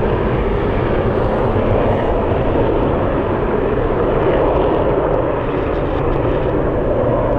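Loud, steady jet noise from an F-35B Lightning II's Pratt & Whitney F135 turbofan engine as the jet departs, a dense rumble without breaks.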